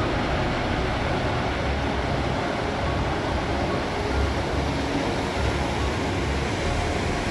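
Creek water rushing through a rock canyon: a steady roar.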